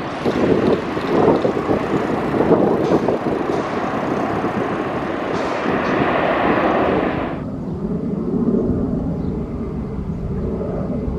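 Aircraft engine noise mixed with wind buffeting the microphone. About seven seconds in it drops suddenly to a quieter, lower rumble.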